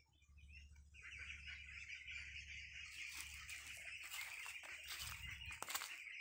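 Birds calling in a dense, continuous chatter, with light crackling of dry leaves and twigs from about halfway through and a sharp click near the end.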